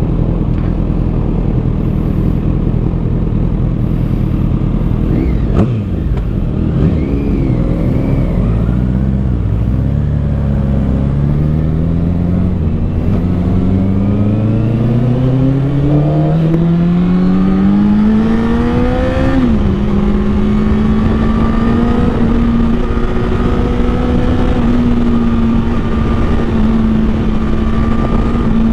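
2013 Honda CBR1000RR Fireblade's inline-four engine, heard while riding through its Taylormade exhaust. The revs dip briefly about six seconds in, then climb in one long, steady rising pull. They drop sharply at a shift a little past halfway, and the engine then holds a steady high-revving cruise.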